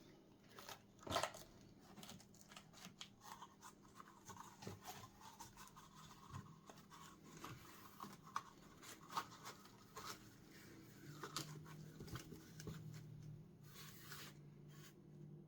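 Faint irregular scraping, rustling and light taps of handwork, with one louder knock about a second in. A low steady hum comes in near the end.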